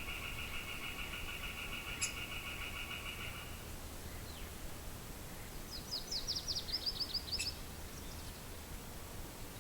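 Outdoor morning ambience of low wind rumble with birds: a steady, pulsing buzzy trill that stops about a third of the way in, then a short, rapid trill of high down-slurred bird notes near the middle.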